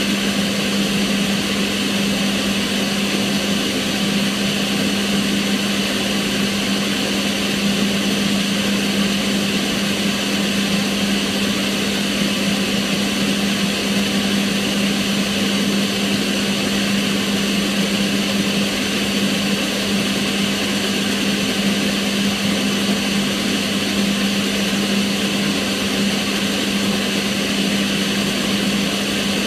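Kitchen range hood extractor fan running steadily: an even rush of air over a constant low hum.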